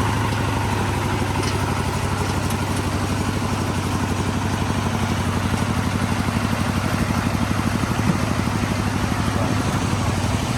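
Small engine running steadily with an even, rapid pulse; no change in speed.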